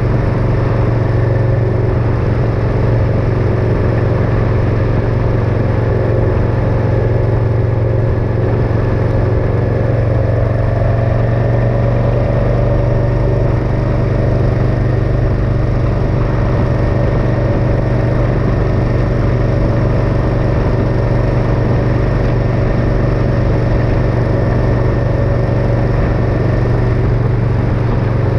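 Motorcycle engine running steadily while riding at cruising speed, its pitch rising slightly about ten seconds in.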